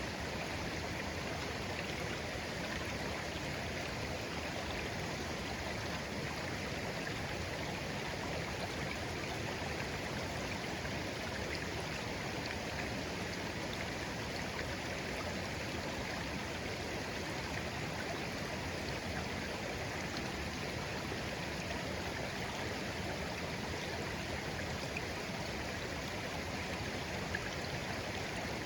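Shallow stream flowing steadily over stones: an even babbling rush of water.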